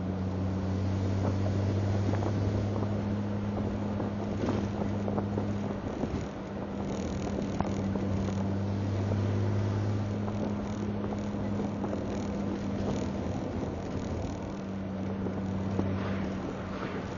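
Engine of a Triumph TR sports car droning steadily while cruising at about 60 mph, with road and wind noise, heard from inside the car. The engine note eases off briefly about six seconds in and again for a few seconds in the second half.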